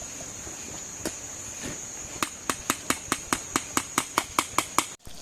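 A rapid even series of about a dozen sharp knocks, roughly five a second, over a steady high-pitched insect trill in night forest.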